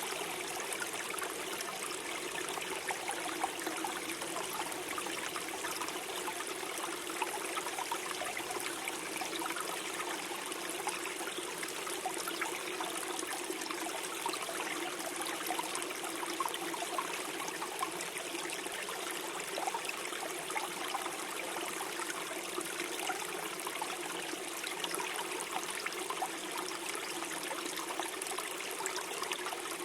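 Small forest stream flowing and gurgling steadily over stones, with many small splashes and trickles.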